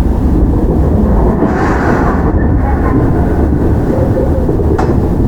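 Toyama Chihō Railway 17480-series field-chopper electric train (ex-Tokyu 8090) running between stations, heard from inside the car. It is a steady rumble of wheels on rail and motor hum, with a single sharp click about five seconds in.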